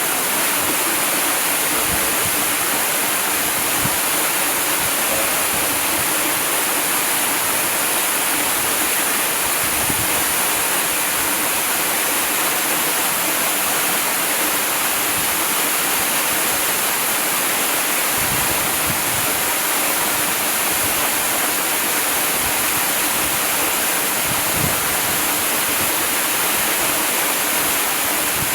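A waterfall: steady rushing of falling water, an even hiss with no breaks.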